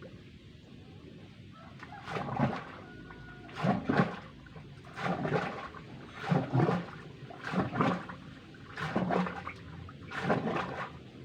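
Water and mud surging out of a manually worked bore-well pipe in rhythmic gushes, seven in all, about one every second and a half.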